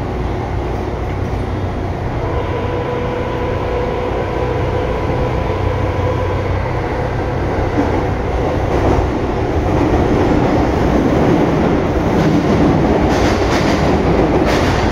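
Tobu 9000 series commuter train running on the line: a steady rumble with a thin, even whine from the drive for the first several seconds, then growing louder as it runs on, with a few sharp wheel-on-rail clicks near the end.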